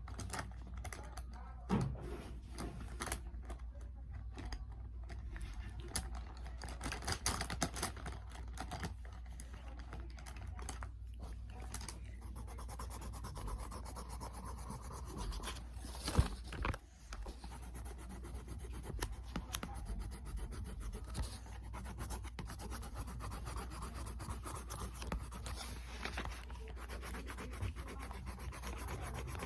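Colouring on paper: a drawing tool rubbing and scratching steadily across the sheet, with a sharp knock about 2 seconds in and another about 16 seconds in.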